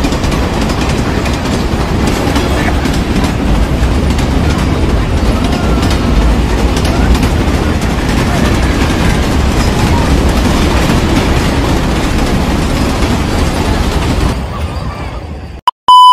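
Freight train of container wagons passing a level crossing close by: a steady rumble and wheel clatter that fades away about a second and a half before the end. A loud steady beep follows for about a second: the test tone of a colour-bars transition.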